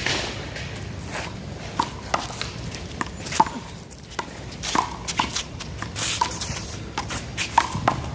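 A one-wall handball rally: the small rubber ball is slapped by hand and smacks off the wall and court in a run of irregular sharp hits, with footsteps shuffling on the court.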